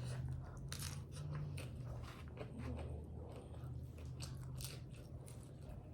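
Close-up chewing and biting of tacos: a string of small crunches and mouth clicks, over a faint steady low hum.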